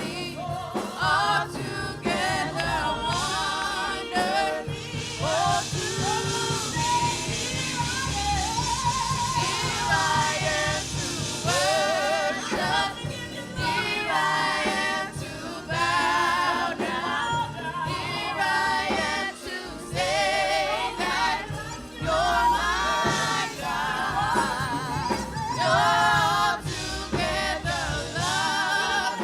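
Gospel worship music: singers' voices with heavy vibrato carrying a melody over continuous instrumental backing.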